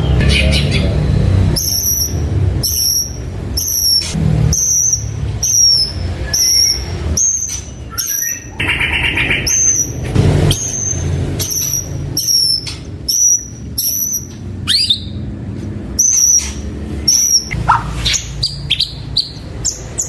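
White-rumped shama (murai batu) singing: a long run of the same short, high whistled note repeated about twice a second, broken once by a buzzy note in the middle, then varied notes near the end. A steady low rumble lies underneath.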